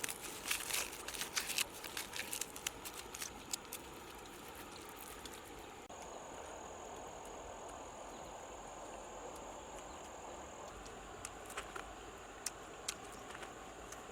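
Outdoor ambience: a run of light clicks and crackles over the first few seconds, then a steady hiss with a thin high whine from about six to ten seconds in, and a few scattered clicks near the end.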